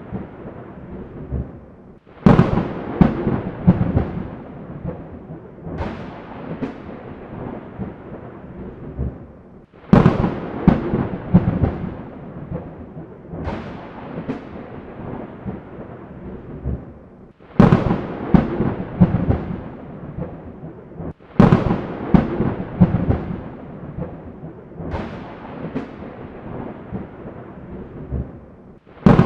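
Thunderstorm: repeated thunder claps, one about every four seconds, each starting with a sudden crack and rumbling away under rain.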